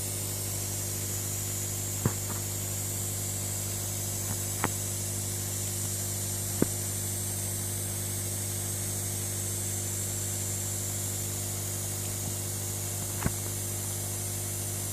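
Terrarium misting system spraying a fine water mist: a steady hiss over a steady low pump hum. A few sharp ticks stand out, about four across the stretch, each spaced several seconds apart.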